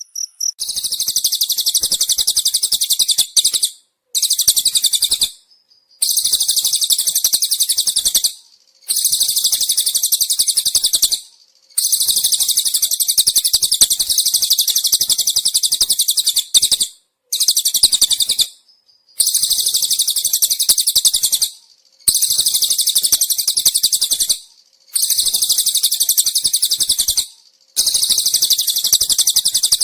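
Cililin and cricket calls used as songbird training material: a fast, high-pitched pulsed trill repeated in bouts of two to five seconds with short pauses between them.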